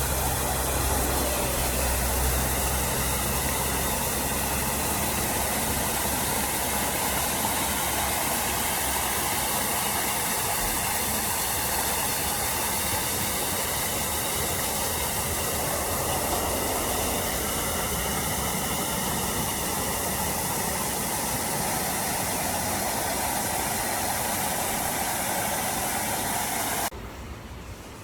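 Rushing water making a steady, even hiss that cuts off suddenly about a second before the end.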